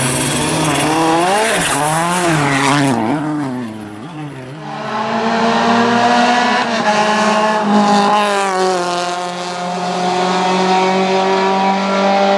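Rally car engine revving hard with quick rises and falls in pitch through gear changes, then a second stretch held at high revs, dropping a little in pitch about eight seconds in.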